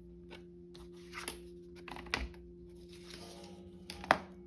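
Small handling noises at a work desk: a few faint clicks and rustles, the sharpest about four seconds in, over a steady low hum.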